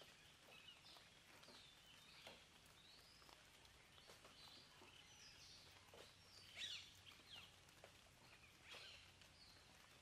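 Faint birdsong: many short chirps and whistled notes from small birds over a quiet background hiss, with a louder burst of calls in the second half.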